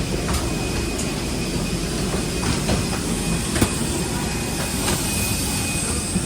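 Steady rushing hum of an airliner's air system and engines during boarding, with a few scattered light clicks and knocks.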